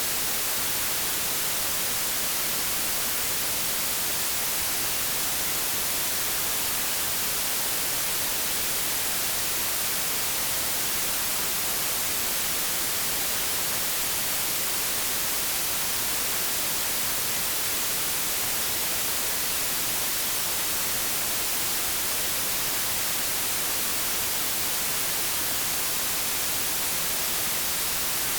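Steady white noise, a continuous hiss like TV or radio static, strongest in the high frequencies and unchanging throughout.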